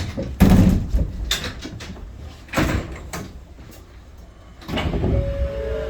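Sliding doors of a Shonan Monorail 5000 series car working, with several knocks and thuds over the first few seconds. About five seconds in, steady tones start.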